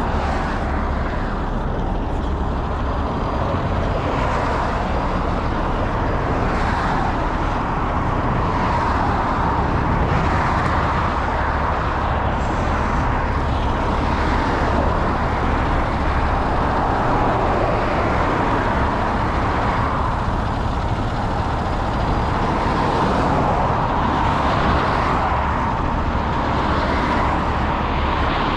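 Steady vehicle running noise: a constant low engine rumble with an even rushing hiss over it, never rising or falling.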